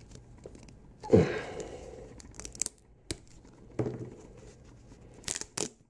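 A 3D-printed 618 nylon part being pulled and torn by hand. There is a stretching, tearing sound about a second in, followed by a few sharp clicks as the pieces are handled.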